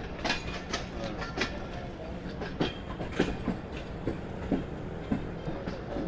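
Passenger train running on the rails: a steady low rumble with irregular clacks and knocks from the wheels and carriage.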